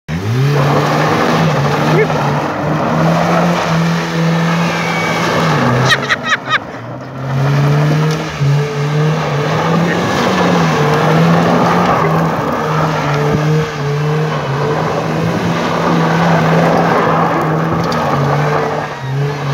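BMW E36 318i's four-cylinder engine held at high revs as the rear wheels spin and slide on loose gravel, with a steady hiss of gravel under the tyres. About six seconds in the revs drop for a moment with a few sharp clicks, then climb again.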